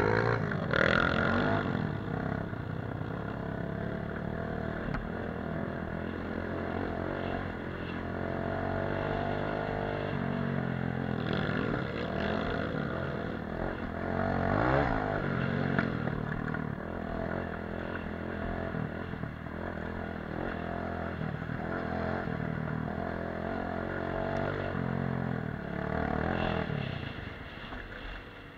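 Off-road motorcycle engine running while riding, its revs rising and falling with throttle and gear changes, loudest just after setting off.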